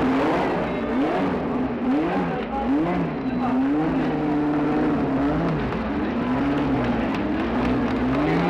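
1970s Formula 1 racing car engine revving, its pitch rising and falling in quick swings over the first few seconds, then holding steadier with smaller ups and downs.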